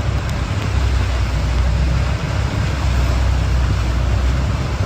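Heavy rain and road traffic on a flooded street: a steady hiss over a deep, continuous low rumble.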